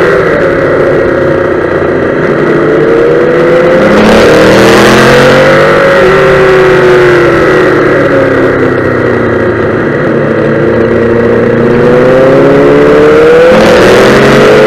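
Yamaha YZF-R1M's crossplane inline-four engine heard from on board, revving up and down through the corners of a track lap. The engine note drops over the first couple of seconds, climbs, falls again through the middle, and climbs once more near the end.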